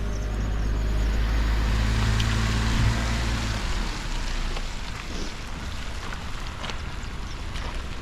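A motor vehicle's engine humming steadily close by, with road and tyre noise swelling to a peak; the engine hum stops about three and a half seconds in, leaving a quieter outdoor rush.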